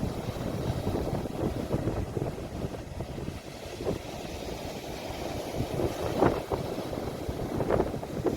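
Sea waves washing in, with wind blowing on a phone microphone, as a steady low noise broken by a couple of brief louder splashes.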